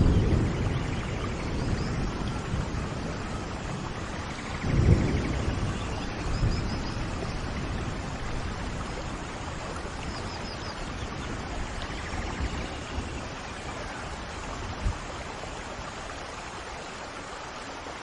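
Heavy rain falling steadily, with low rolls of thunder about five seconds in and a short low thump near the end.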